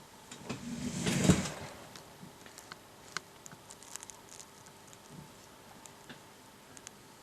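Handling noises: a brief scraping, rustling slide about a second in, then scattered light clicks and taps.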